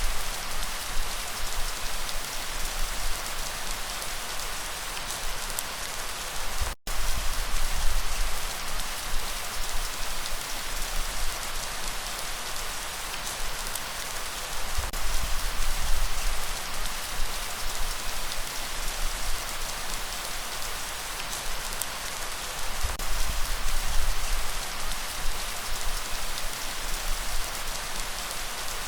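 Steady heavy rain, a dense even hiss, over a low rumble that swells and fades every seven or eight seconds. The sound cuts out for an instant about seven seconds in.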